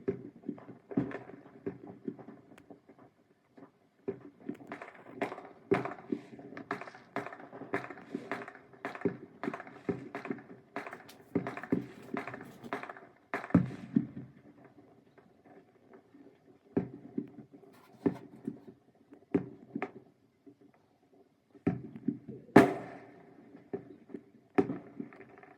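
Fireworks going off: a rapid run of bangs and pops through the middle, then scattered single bangs, the loudest one near the end.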